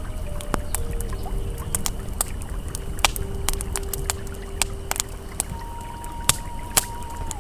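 Campfire crackling with frequent sharp pops over the steady rush of river water. Soft held ambient tones sound behind them, moving to a higher note about five and a half seconds in.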